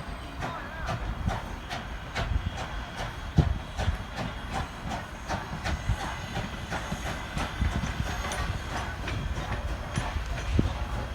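Strasburg Rail Road No. 89 steam train rolling by, with steam hissing and many irregular clicks and clanks from the wheels and cars over the rail joints, above a steady low rumble.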